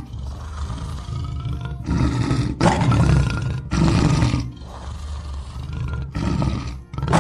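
Lion roaring several times, loud rough roars with a low rumble between them.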